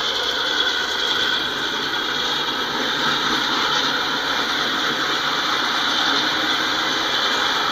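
Freight train's covered hopper cars rolling past: a steady rumble and hiss of steel wheels on the rails.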